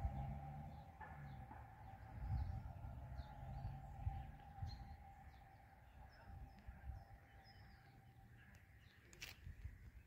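Small birds chirping faintly in short, scattered calls over a low, uneven outdoor rumble, with one sharp click about nine seconds in. The tail of background music fades out in the first moments.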